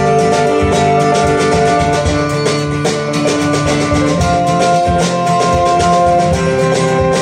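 Live band music from an acoustic set: guitar with drums keeping a steady beat under held notes.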